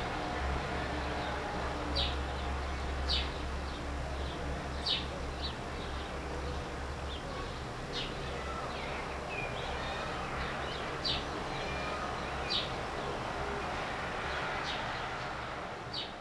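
Rural outdoor ambience: a bird gives short, high chirps every second or two over a steady background hiss with a low rumble.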